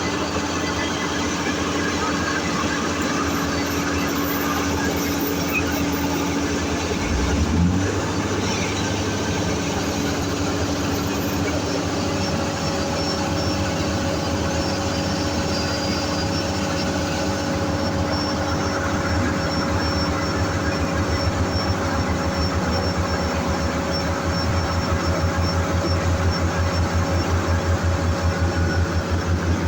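Diesel engine of heavy drilling or earthmoving machinery running steadily. There is a brief low surge about seven seconds in, and an even pulsing throb in the last few seconds.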